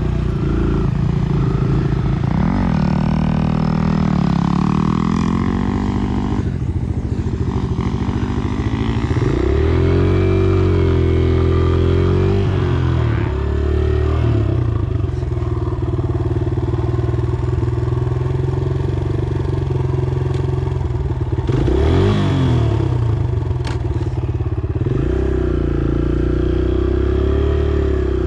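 Dirt bike engine under way on a motocross track, its pitch rising and falling over and over as the throttle opens and closes.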